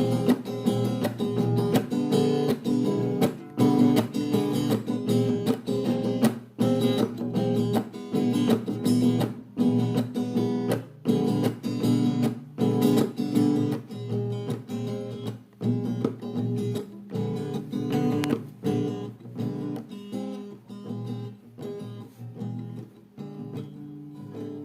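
Instrumental music: acoustic guitar strumming chords, growing gradually quieter toward the end.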